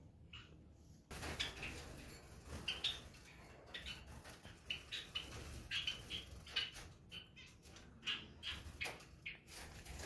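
Caged small birds chirping in a room: many short, scattered high chirps, overlapping and irregular, starting about a second in.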